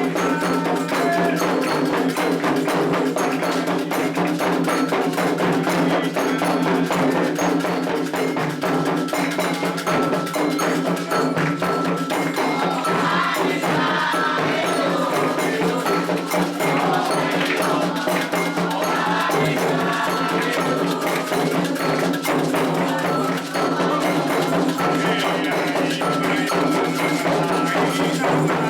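Candomblé ritual music: hand drums and a struck metal bell keep a dense, steady rhythm, with voices singing in places.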